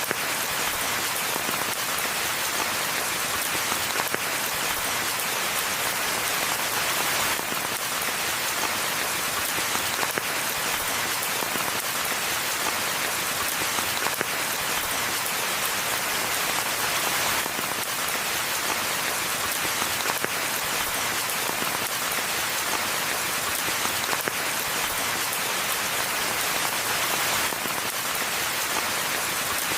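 Steady rain falling on a forest, a dense even hiss with many small drop impacts on leaves and ground.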